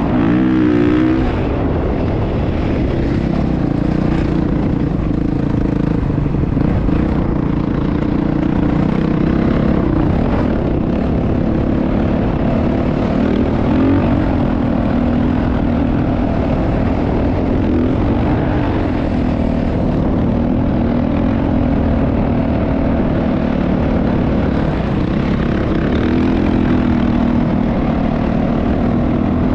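Motocross bike engine running under steady throttle, its note wavering gently up and down without big revs.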